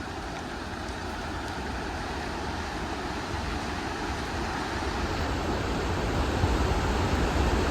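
Large waterfall's steady rushing roar with wind buffeting the microphone, growing gradually louder.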